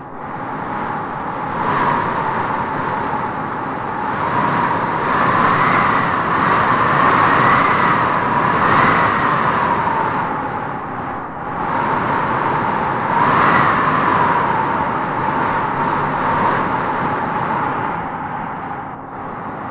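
Wind howling in gusts: a steady rushing noise with a whistling howl that swells and fades, rising strongly about a third of the way in and again past the middle.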